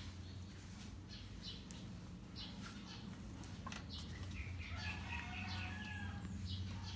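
Birds chirping in short, repeated calls, busier for a couple of seconds past the middle, over a faint low steady hum.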